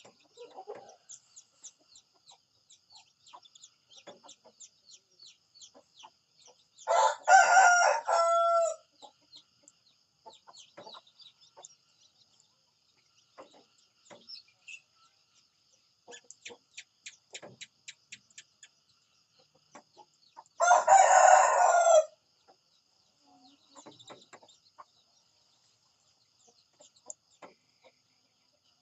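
Rooster crowing twice, each crow lasting about one and a half to two seconds, the first about seven seconds in and the second about twenty-one seconds in. Between them there are faint short high ticks.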